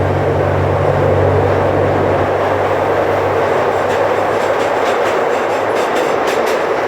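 Zoo train running along its track, heard from aboard: a steady rumble and rush of wheels on rail, with a low hum that fades after a couple of seconds. From about four and a half seconds in comes a run of rhythmic clickety-clack as the wheels pass rail joints.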